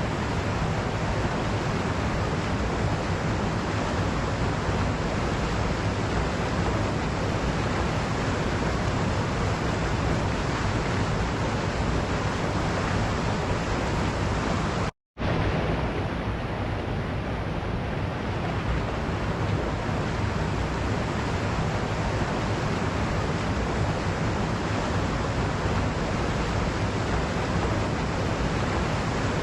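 Waterfall: steady, dense rushing of falling water. It cuts out completely for a split second about halfway through, then resumes unchanged.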